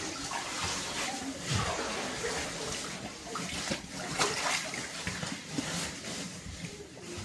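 Water sloshing and splashing as people move through it, with irregular small splashes over a steady wash of water noise.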